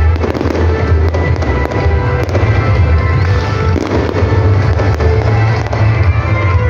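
Fireworks going off, many sharp irregular pops and crackles, over loud music with a heavy, steady bass.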